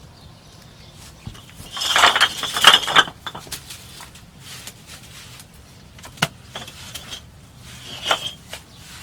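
Hard objects clinking and scraping against each other: a rough burst lasting about a second, about two seconds in, then single sharp clinks near six and eight seconds.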